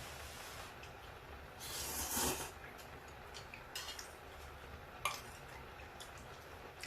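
Close-up eating sounds: a brief noisy crunch or rustle about two seconds in, then a few sharp clicks of cutlery against a plate.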